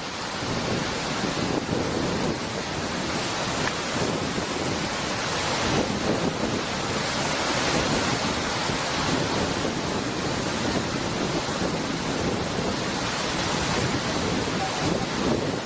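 Rushing water: a steady, dense noise that holds at the same level throughout, with no pauses or separate impacts.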